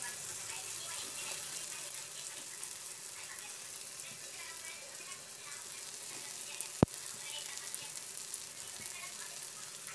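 Chopped vegetables sizzling in hot oil in a frying pan, a steady hiss, with a single sharp click about seven seconds in.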